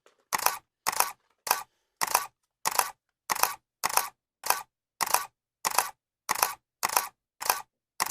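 Camera shutter clicking over and over at an even pace, about two clicks a second, each a quick double snap.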